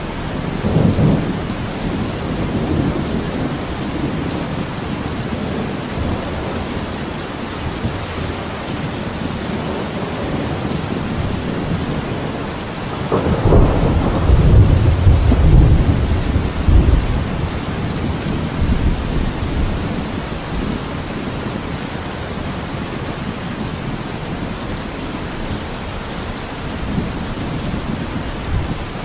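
Thunderstorm: steady heavy rain with rumbling thunder, a short low roll about a second in and a louder, longer rumble from about thirteen seconds in that dies away over several seconds.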